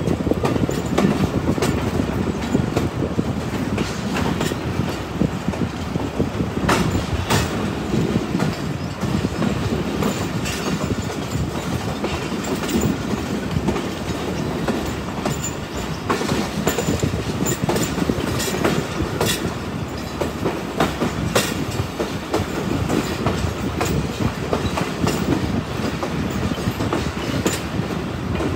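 Passenger train running along the track, heard from the side of a moving coach: a steady rumble of wheels on rail, with scattered sharp clicks at irregular intervals.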